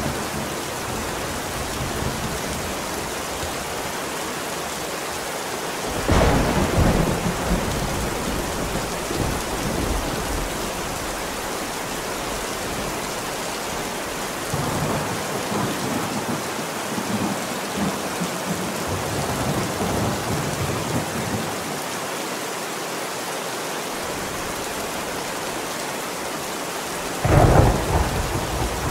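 Steady heavy rain with thunder: a loud thunderclap about six seconds in, a longer low rumble rolling through the middle, and another sharp clap near the end.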